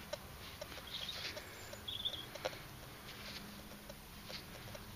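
Faint outdoor background with a few short, high bird chirps and scattered light ticks.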